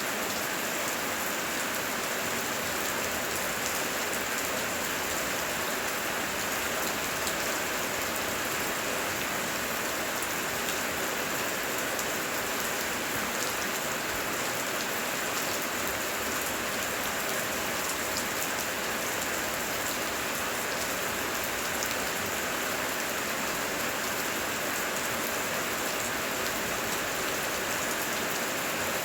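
Heavy rain falling steadily: an even hiss of rain with many small drop impacts, unchanging throughout.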